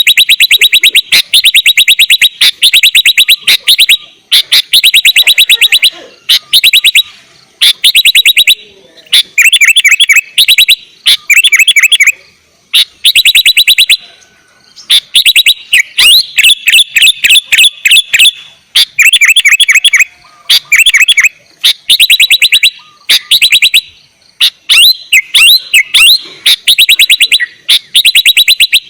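Sooty-headed bulbul (kutilang) singing continuously and loudly. It gives rapid runs of repeated chirping notes, about ten a second, in phrases of one to two seconds separated by short pauses.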